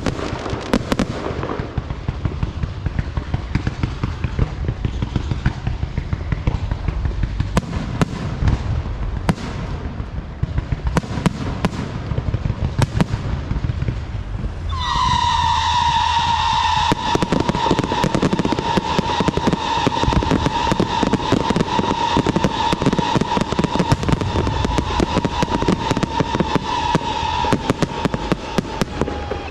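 Fireworks: rapid crackling pops throughout, and about halfway in a steady high whistle with overtones starts, sinking slightly in pitch and lasting about fourteen seconds.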